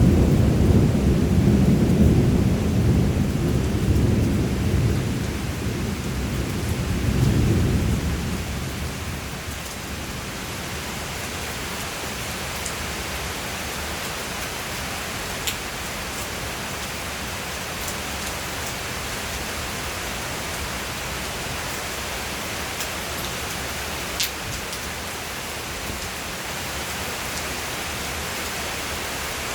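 Thunder rumbling low and loud over steady rain, swelling once more about seven seconds in, then dying away. After that the steady hiss of rain goes on, with a few faint sharp ticks of drops.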